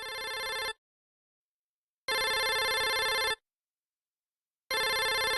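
Electronic ringtone-like tone: a bright chord of steady pitches sounding three times, each just over a second long and about two and a half seconds apart, with dead silence between.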